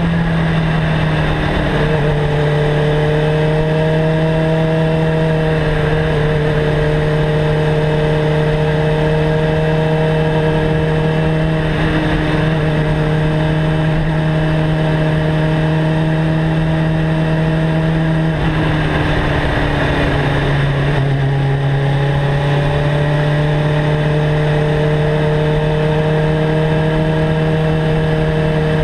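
Suzuki GSX-R 750's inline-four engine, fitted with a Mivv GP exhaust, running at steady revs while riding. About two-thirds of the way in the note drops lower for a couple of seconds, then comes back up and holds steady.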